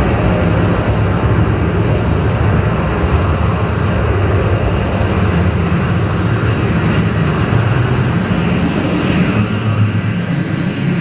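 Electronic ambient drone from analog synthesizers: a dense, steady low hum with a rushing noise above it, held without break.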